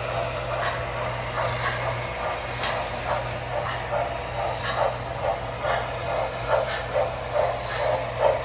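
MTH model trains running on their track: a steady electric hum under a regular clicking beat of about two to three a second.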